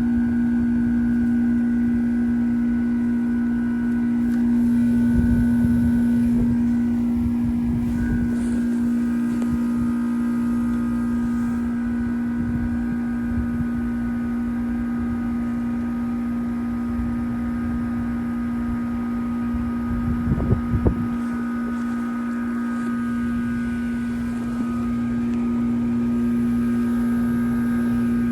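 2007 Trane XR13 heat pump outdoor unit running through a defrost cycle: a steady, loud low hum with fainter higher whining tones above it. A few short low rumbles come through, the strongest about two-thirds of the way in.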